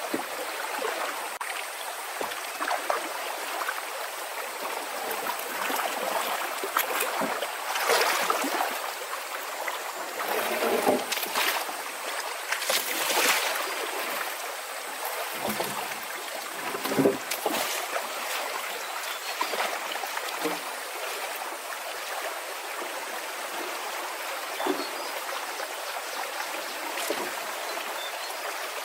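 Running water, with irregular louder splashes or surges.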